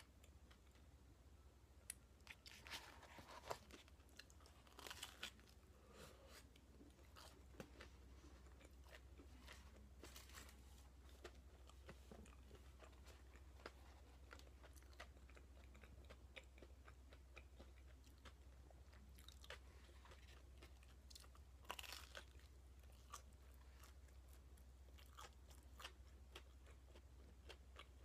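Quiet, close-up chewing of toast topped with potato salad: soft crunches of the toast crust and wet mouth sounds, with a few louder crunchy bites scattered through, over a steady low hum.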